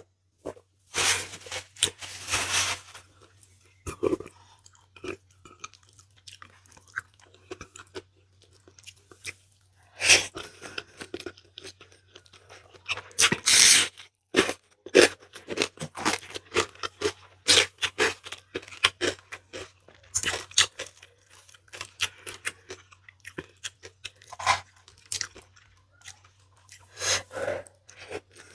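Chewing and wet mouth sounds of a person eating rice and spicy noodles by hand, coming in short, irregular bursts.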